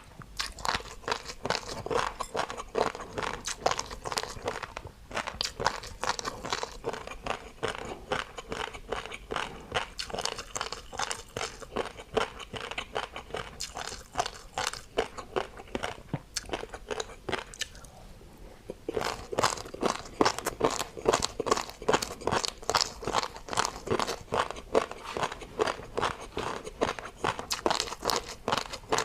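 Close-up crunching of crisp food being bitten and chewed, a rapid run of sharp crunches that eases off and nearly stops for a moment a little past the middle, then picks up again.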